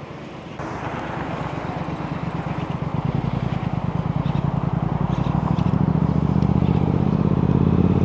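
Motorcycle engine running with a low, pulsing beat, growing steadily louder as it draws near.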